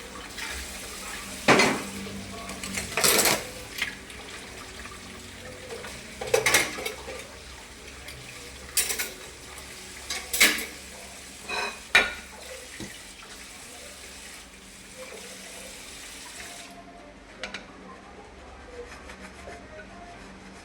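Bowls and plates clinking and clattering as they are washed by hand in a sink, over a steady hiss of running water. The water stops a few seconds before the end.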